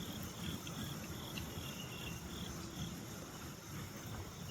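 Insects chirping in short, repeated pulses at one high pitch, over a steady low rumble of outdoor background noise.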